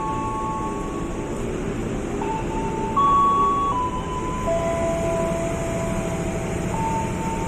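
KRL Commuter Line electric train moving off, its traction equipment giving steady whining tones that step up and down in pitch every second or two over a low running rumble.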